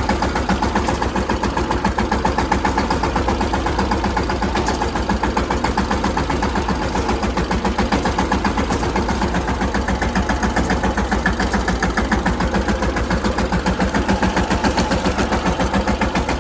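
Mahindra Yuvraj 215 tractor's single-cylinder diesel engine running steadily with an even, rapid beat.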